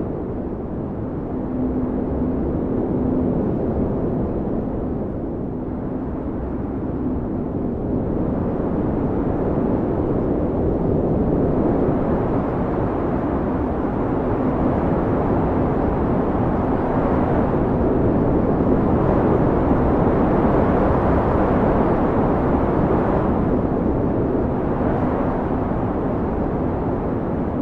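Blizzard wind blowing hard and steadily, swelling and easing in gusts, loudest in the middle and again near the end. A faint low howl comes and goes.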